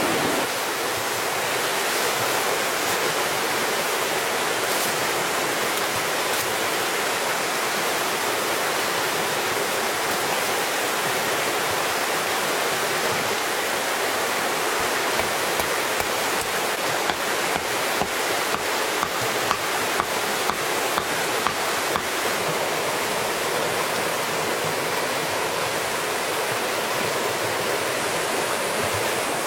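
Steady rushing water noise, like a stream or heavy rain. Partway through comes a run of sharp taps, about two a second, for several seconds.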